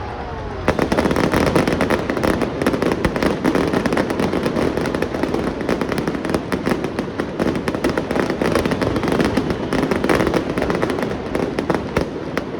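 Fireworks crackling: a dense, rapid stream of sharp pops and cracks that begins suddenly about a second in and thins out near the end.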